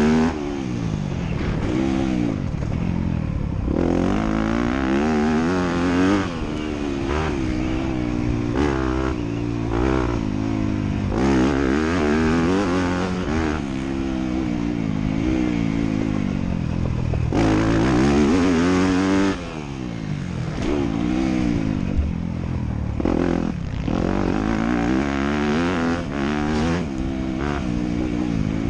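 Motocross dirt bike engine revving up and dropping off again and again as the rider opens and closes the throttle around the track.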